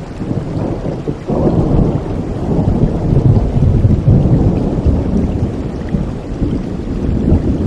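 Steady rain with a roll of thunder: a low rumble starts suddenly about a second in, swells for a couple of seconds and slowly dies away.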